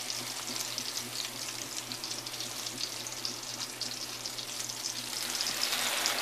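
French toast frying in a hot cast-iron skillet: a steady sizzle with fine crackles that grows louder about five seconds in, as another egg-battered slice goes into the pan.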